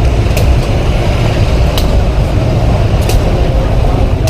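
Steady low rumble of street traffic, with three sharp taps about a second and a half apart that fit a shuttlecock being kicked.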